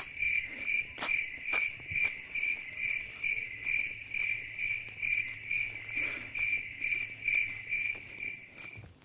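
Cricket chirping: an even, high, pulsed trill of about three chirps a second that cuts off suddenly near the end.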